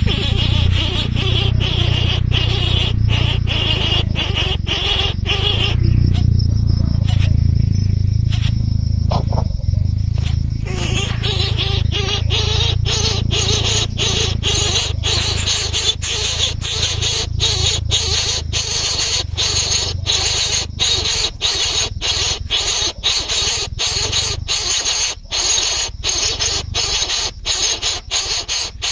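Insects chirping in a steady pulsing rhythm, about two pulses a second, over a low rumble that fades after the first half.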